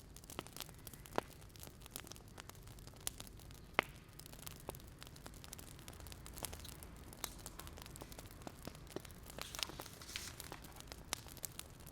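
Wood fire crackling: irregular faint pops and snaps, a few sharper than the rest, over a steady low rumble.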